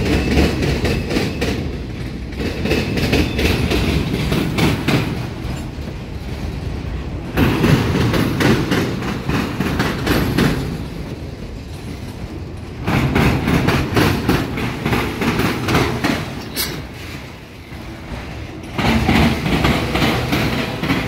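Freight train of boxcars and autorack cars rolling past, its steel wheels clattering in quick rows of knocks as they cross a double diamond rail crossing. The clatter swells and eases in waves as groups of cars pass over it.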